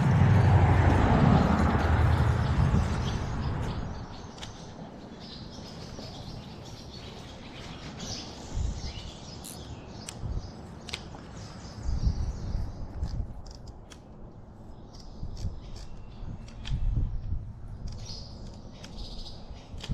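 Small birds chirping, over a low rumble that is loudest in the first few seconds and returns in short swells.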